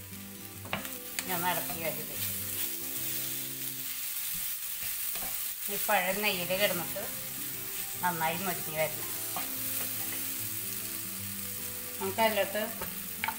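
Ripe banana pieces sizzling in ghee in a nonstick pan, stirred and pushed around with a wooden spatula. Background music with sustained notes and a wavering melody plays underneath.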